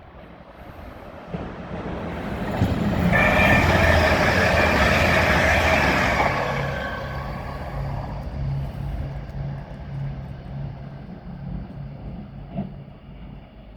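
A train moving through the station: its noise builds to a loud peak about three to six seconds in, with several steady high tones over it at the loudest, then dies down to a low, evenly pulsing hum.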